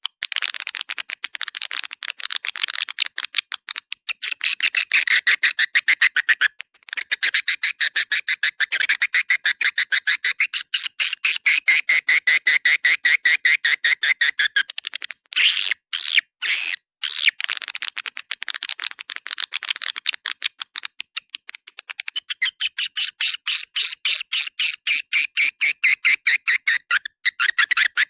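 Swiftlet calling track: a fast, unbroken stream of sharp twittering chirps from swiftlets, the lure sound played to draw swiftlets into a nest house. It breaks off briefly about seven seconds in, and again a few times around the middle.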